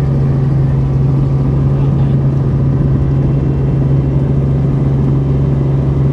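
Helicopter running, heard from on board: a loud, steady drone with a strong low hum that does not change.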